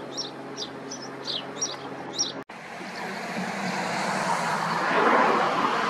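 A small bird chirping repeatedly, short falling chirps about three a second, over a steady low hum. After an abrupt cut about two and a half seconds in, a rushing noise swells up, peaks near the end and eases slightly.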